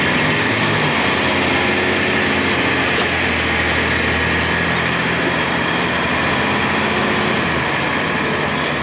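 A 2002 Blue Bird CS transit bus's Cummins ISC inline-six diesel engine running steadily, its pitch shifting a little over the few seconds.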